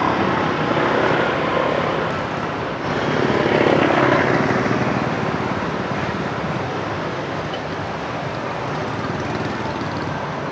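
Steady street traffic, with one passing vehicle growing louder and fading between about three and four and a half seconds in.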